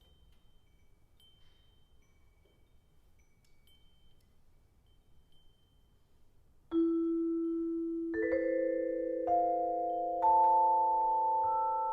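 Faint, sparse high tinkling, then a vibraphone struck note by note in a rising line: five notes that each ring on and build into a sustained chord.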